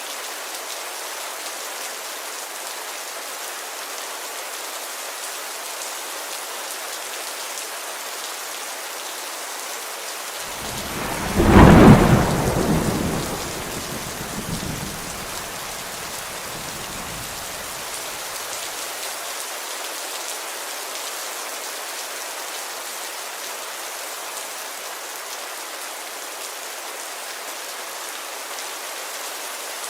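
Steady rain falling on a window pane. A little before the middle a clap of thunder breaks in, the loudest moment, and rumbles away over the next several seconds.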